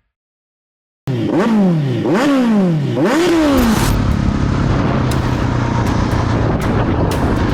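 Motorcycle engine revved in three quick throttle blips, each rising sharply in pitch and falling away, then running steadily with road noise.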